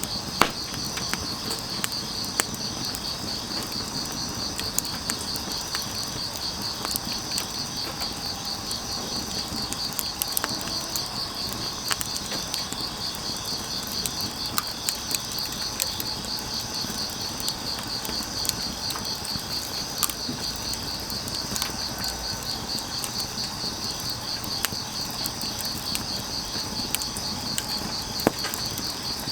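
Grass insects chirping in a steady, fast-pulsing trill, while burning firewood crackles with scattered sharp pops and snaps. The loudest pop comes about half a second in.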